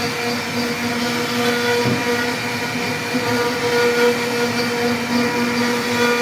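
CNC router spindle running as it carves a wooden door panel: a steady whine with several fixed pitches over a rough cutting noise.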